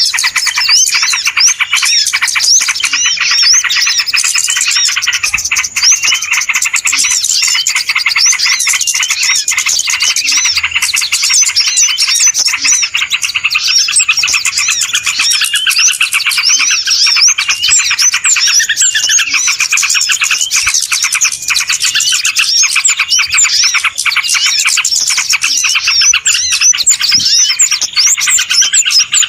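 Dense, busy chorus of many small birds chirping and twittering over one another without a break: a bird-lure recording of noisy birds played to draw wild birds in.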